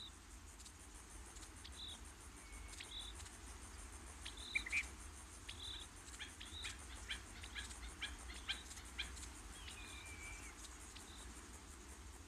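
Faint natural ambience of scattered short, high chirps from birds and insects, with a few clicks and one brief whistled glide about ten seconds in, over a low steady hum.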